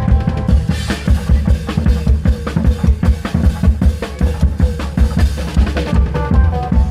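Klong yao (Thai long drum) troupe playing: fast, dense drumming with heavy low drum strokes, and a melody line running over it.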